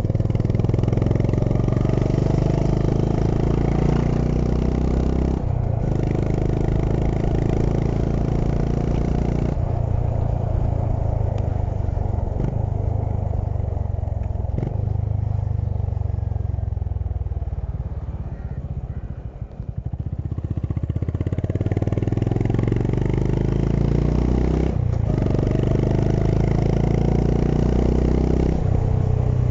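Honda H'ness CB350's single-cylinder engine under way, its pitch climbing in each gear and breaking at the upshifts. About two-thirds of the way through it eases off and slows, then pulls up through two more gears.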